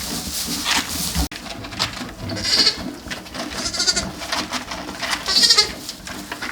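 Farm animal bleating: three high, wavering calls about a second and a half apart.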